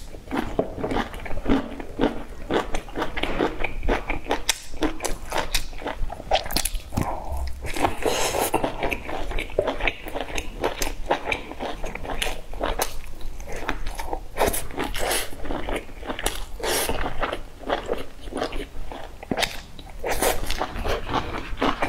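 Close-miked biting and chewing of crisp fried pork pieces: dense, irregular crunches and wet mouth clicks that keep going throughout.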